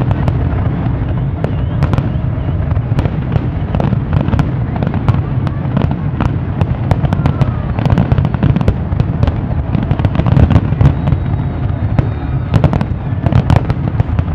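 Aerial fireworks display: a rapid, irregular run of sharp bangs and crackles from bursting shells over a constant low rumble, loudest around ten seconds in and again near the end.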